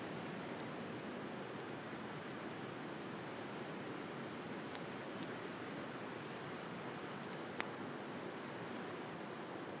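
Wood campfire crackling with a few sparse, sharp pops, one louder pop about three quarters of the way through, over a steady rush of sea waves.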